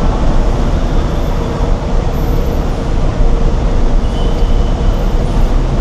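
Steady, loud road noise and low rumble of a moving vehicle.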